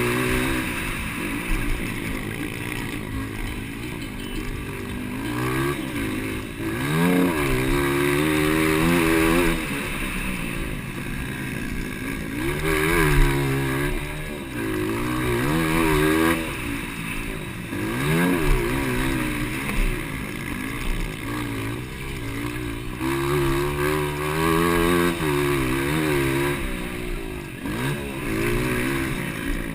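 200cc motocross bike engines racing, their pitch climbing and dropping over and over as riders open and close the throttle and shift gears.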